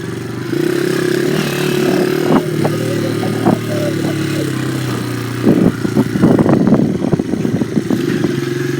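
Dirt bike engine running at a steady speed while being ridden, with a few sharp knocks and then about two seconds of clattering knocks and rattles roughly five and a half seconds in.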